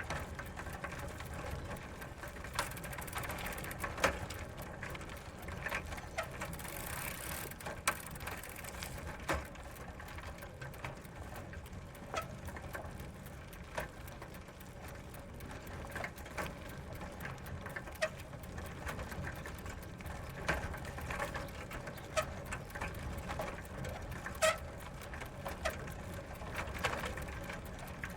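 Bicycle ridden slowly over gravel: a steady crunching rumble from the tyres, scattered sharp clicks of stones and mechanical ticking from the chain and drivetrain.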